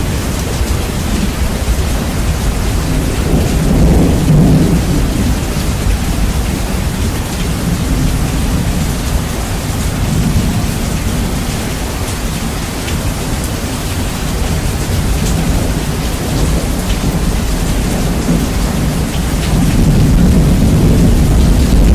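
Steady heavy rain with rumbling thunder, bass-boosted so the low end is heavy and loud. The rumble swells about four seconds in and again near the end.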